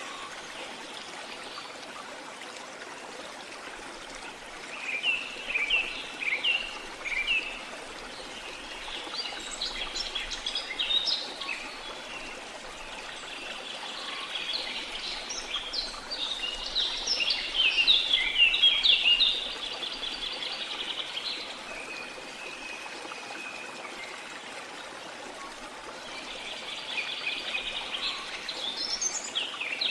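Steady rush of falling water under repeated bird calls: short chirping phrases around five and ten seconds in, a long busy stretch of song about halfway, and a fast trill starting near the end.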